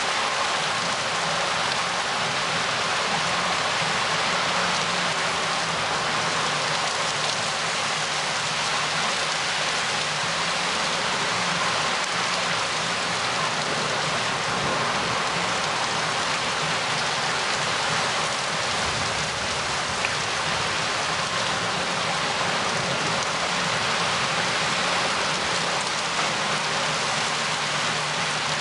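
Steady, even downpour of rain from a thunderstorm.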